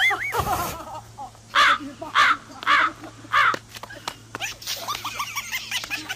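Four harsh, evenly spaced calls about two-thirds of a second apart, like a bird's, followed by softer, quicker chirping calls near the end, over a faint steady hum.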